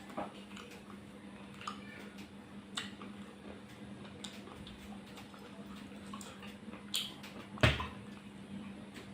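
A person eating ice cream: scattered short clicks and smacks of eating, a few seconds apart, the loudest about three quarters of the way through, over a steady low hum.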